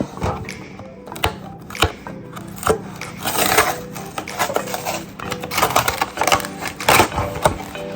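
Ice cubes clinking and clattering into a glass: a run of sharp clicks and knocks over soft background music.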